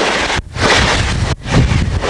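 Passenger train coaches passing close by at speed: a loud rushing noise with low wheel rumble and air blowing on the microphone. The noise drops out briefly twice, about half a second and a second and a half in.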